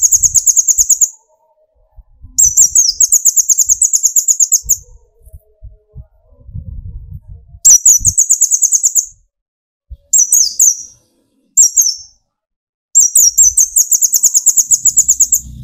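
Kolibri ninja (konin) sunbird singing its 'tembakan' song: very high, rapid trills in bursts of one to two and a half seconds, four long bursts with two short phrases between them.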